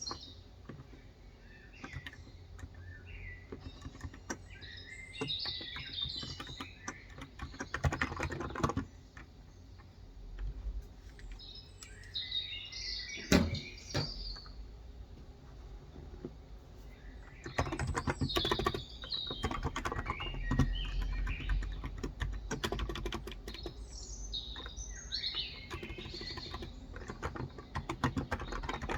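Typing on a Cox Endeavor electrostatic capacitive (Topre-style) tenkeyless keyboard with 35 g switches, in bursts of rapid keystrokes with short pauses between. Birds chirp in the background throughout.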